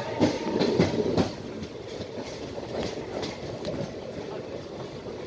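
Coaches of a passing express train running through at speed, wheels clattering over the rail joints in a quick repeating clickety-clack, loudest in the first second or so.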